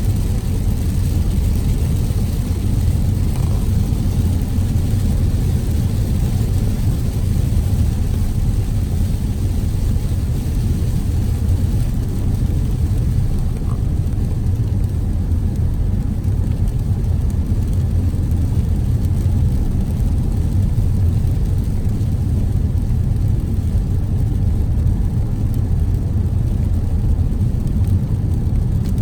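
Car driving: a steady low road and engine rumble, with a fainter even hiss above it.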